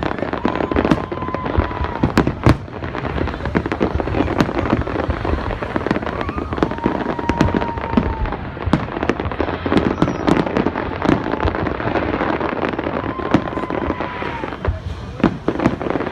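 Fireworks display: a dense, continuous barrage of bangs and crackles from bursting shells. Over it, a steady tone sounds three times, each lasting about a second and a half.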